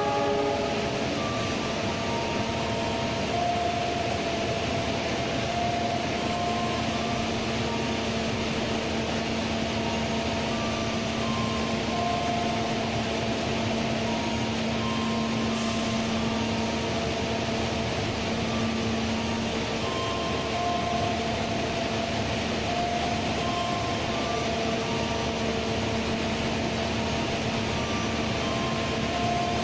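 Steady hum and rumble of diesel passenger trains at a station platform as a locomotive-hauled train pulls slowly in. Faint held tones at changing pitches come and go over the hum.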